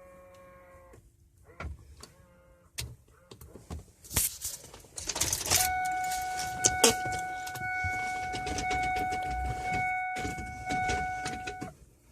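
Ford 7.3 Powerstroke V8 turbo-diesel being cranked on a cold start after a month sitting, with a steady starter whine under the rough cranking noise for about six seconds, cut off suddenly near the end. A few clicks and knocks come before the cranking.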